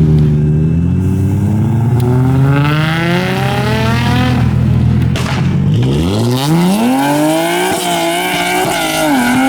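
A car's engine revving hard in a burnout, with tyres squealing. The revs climb slowly, drop back, then shoot up sharply about six seconds in and hold high, wavering.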